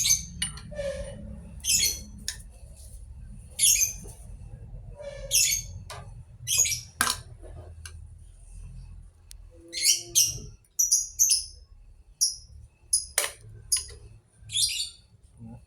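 A bird chirping repeatedly: short, high calls every second or so, over a low steady hum.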